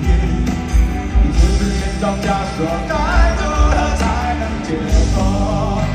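Live rock band playing a song, with a singing voice over a steady drum and bass beat.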